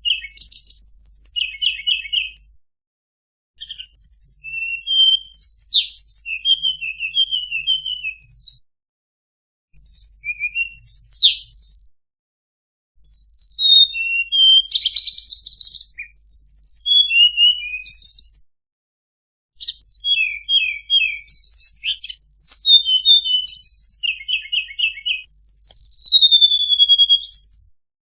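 Tledekan bird singing, as a masteran recording: rapid phrases of varied high chirps, short trills and whistled notes, with one long falling whistle near the end. The phrases come in bursts of a few seconds separated by brief silences.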